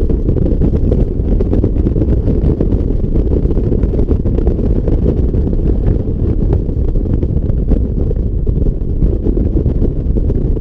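2006 Ford F-150's exhaust, the engine running with a steady, loud, deep rumble.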